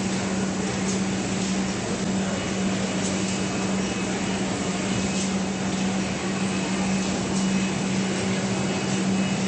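Automatic bottle screen printing machine running: a steady machine hum with a constant low tone under an even hiss, and faint light clicks now and then.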